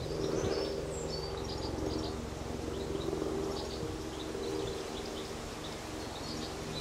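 Birds chirping in scattered short calls over a steady low drone.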